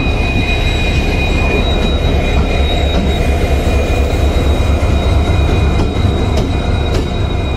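A railway train on the track at close range: a loud, steady low rumble with a thin, high, steady squeal above it, typical of wheel squeal.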